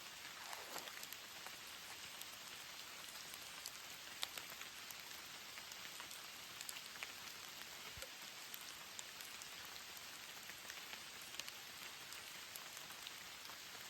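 Steady rain falling, with many scattered drop ticks and a few louder individual drops hitting a surface.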